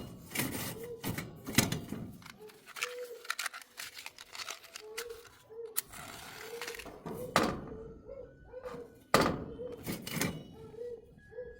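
Irregular knocks and clunks of cooking utensils and ingredients being handled, with several sharper knocks scattered through, over a faint repeated cooing.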